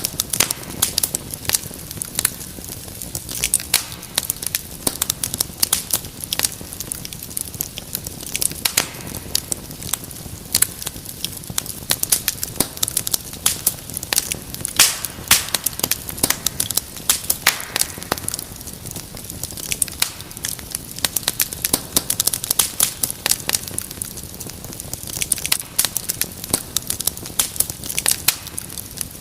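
Wood fire crackling in a fireplace: a steady stream of irregular sharp pops and snaps over a low, even hiss.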